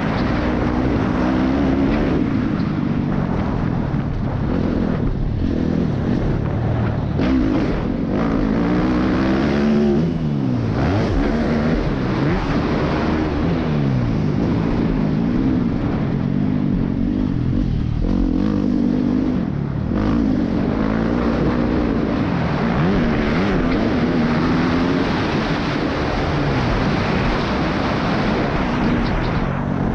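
Motorcycle engine revving up and down over and over while being ridden, its pitch climbing and dropping through the throttle and gear changes, with wind noise.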